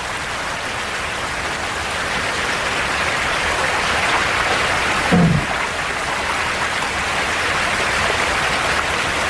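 Steady rushing of river water at McNeil Falls, with a brief low falling call about five seconds in.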